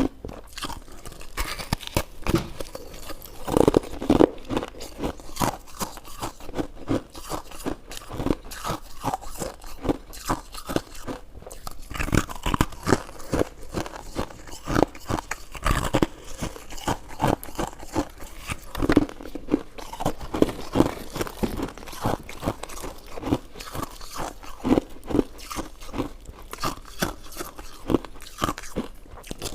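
Close-miked eating: a person biting and chewing food, with a dense, irregular run of short clicks and crunches.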